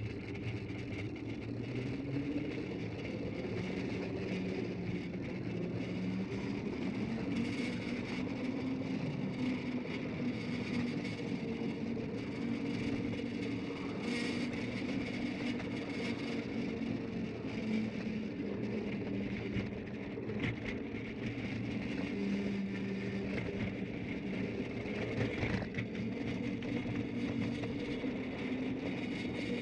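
A 5-inch gauge ride-on miniature train running along the garden track: a steady motor whir whose pitch wavers a little with speed, over the rumble of the wheels on the rails.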